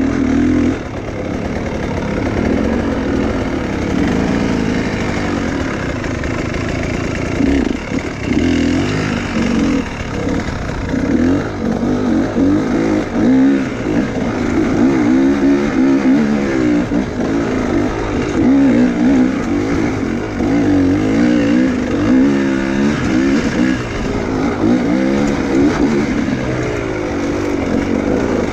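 Enduro motorcycle engine revving up and down over and over, its pitch rising and falling every second or two as the throttle is worked.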